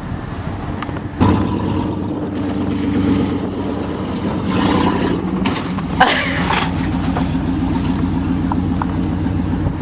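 1988 Chevrolet pickup truck's engine running under way, jumping in loudness about a second in and then holding steady.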